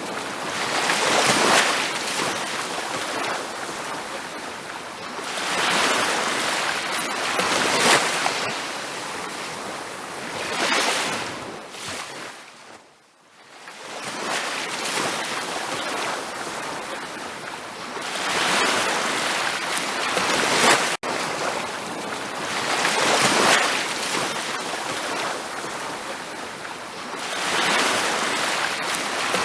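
Ocean waves breaking and washing up a beach, the surf swelling and fading every few seconds, with a quieter lull about midway. The sound cuts out for an instant about two-thirds of the way through.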